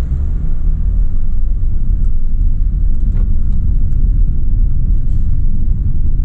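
Steady low rumble inside the cabin of a 2017 Dodge Challenger SXT being driven: its 3.6-litre V6 engine and road noise.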